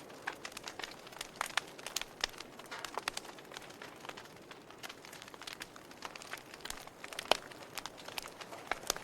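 Wood fire crackling in a fireplace: irregular pops and snaps over a soft hiss, with one sharper pop about seven seconds in.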